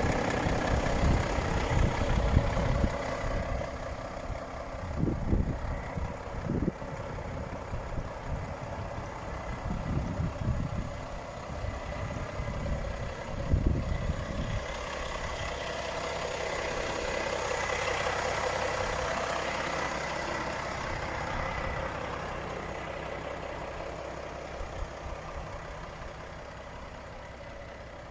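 Volvo FH 460 truck's 13-litre six-cylinder diesel engine idling steadily, with irregular low rumbles and thumps over it in the first half. The engine sound swells gently past the middle and then eases off.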